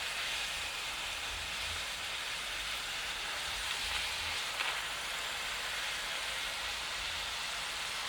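Puri dough deep-frying in hot oil: a steady sizzle.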